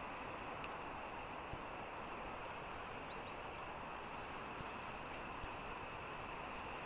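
Faint, short high chirps of small songbirds, a few scattered notes, over a steady outdoor background hiss and hum.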